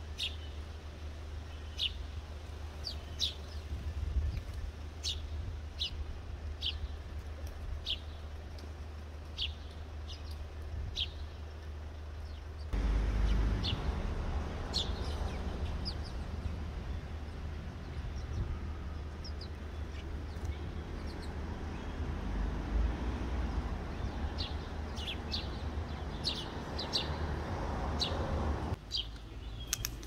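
Birds chirping in short, high calls, one or two a second, over a steady low background rumble. The background changes abruptly about 13 seconds in and again near the end.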